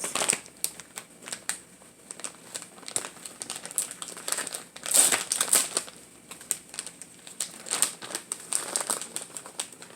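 Food packaging being handled: plastic wrapping crinkling and crackling in irregular bursts, loudest about five seconds in.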